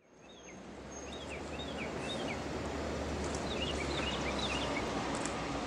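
Outdoor ambience fading in over the first couple of seconds: a bird sings phrases of short repeated chirps over a steady background hiss.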